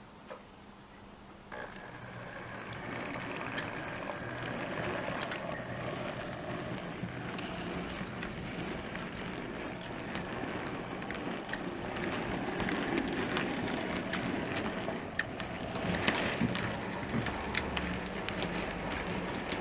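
OO gauge model train running on the layout: a small motor hum with many light clicks from the wheels on the track. It starts about a second and a half in and slowly grows louder.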